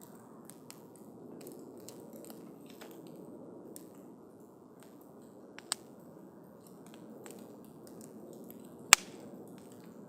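Wood campfire burning with a steady low rush and frequent small crackles, with a sharp pop a little over halfway through and a much louder crack near the end.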